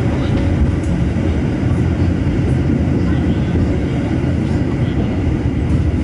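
Passenger train running: a steady low rumble heard from inside the carriage.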